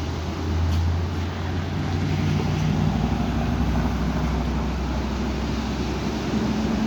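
Strong wind buffeting the microphone with a steady low rumble, swelling slightly about half a second in.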